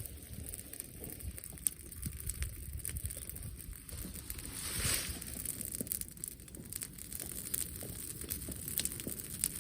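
Brush bonfire of cut saplings crackling, with scattered snaps and pops over a steady low rumble of wind. A rushing swell rises and falls about halfway through.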